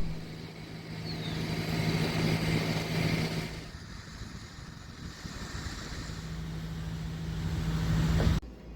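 Road traffic noise: vehicles passing, swelling and fading twice over a steady low hum, cutting off suddenly near the end.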